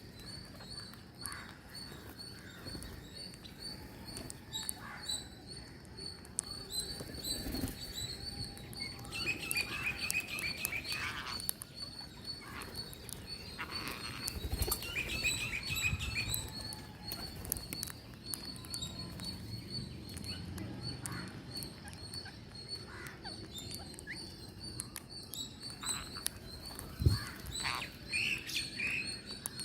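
Green parrots chirping: a steady run of high, quickly repeated chirps, broken a few times by short bursts of fast trilled calls. There is a sharp knock near the end.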